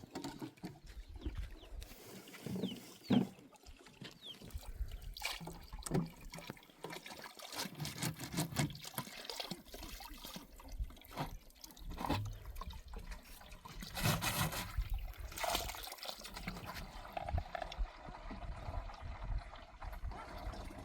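Water trickling and dripping, with many irregular small splashes and knocks.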